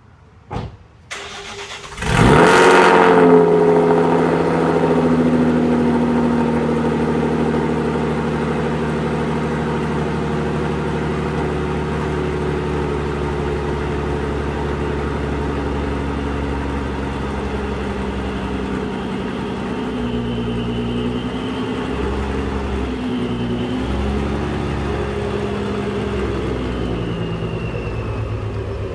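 2012 Ford Mustang 3.7-litre V6 with a Procharger supercharger, Borla longtube headers, off-road X-pipe and Borla ATAK cat-back exhaust starting up: brief cranking, then it fires with a loud flare about two seconds in and settles into a steady, loud idle.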